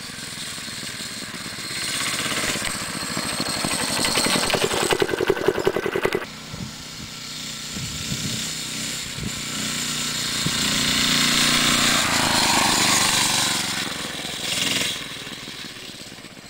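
Mini bike's 5 hp Tecumseh engine running and revving up and down as the bike is ridden. It is loudest around four to six seconds in, drops off suddenly, swells again, and fades toward the end.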